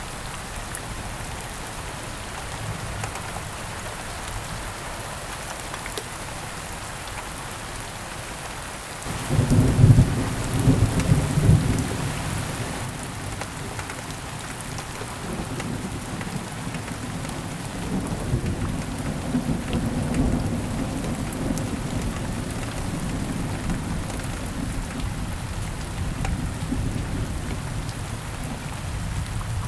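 Steady rain falling, with a thunderclap breaking about nine seconds in and rolling on as a long low rumble to the end.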